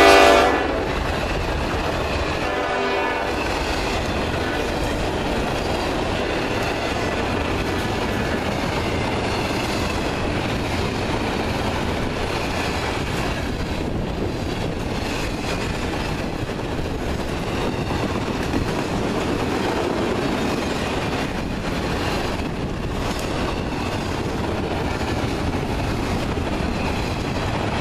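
The tail of a diesel locomotive's horn dies away in the first second or two. Then a long intermodal freight train of trailer flatcars and double-stack container well cars rolls steadily past, with the continuous rumble and clatter of steel wheels on the rails.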